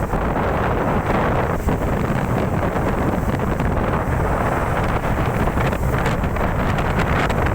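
Strong wind blowing across the microphone: a steady, loud rush and rumble.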